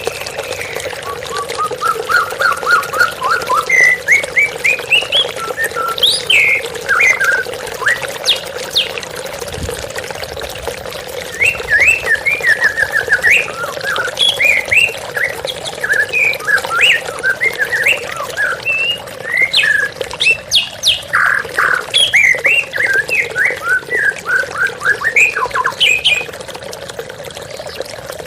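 White-rumped shama (murai batu) singing a long, varied song of short whistled and chattering notes, some in quick runs, over the steady rush of running water.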